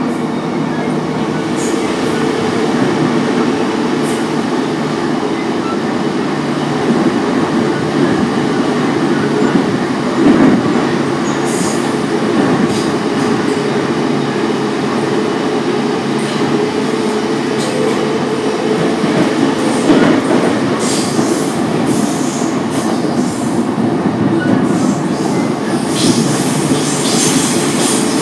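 Running noise inside an E233-0 series electric commuter train at speed: a steady rumble of wheels on rail. High-pitched wheel squeals come in brief streaks, once near the middle and repeatedly in the last several seconds.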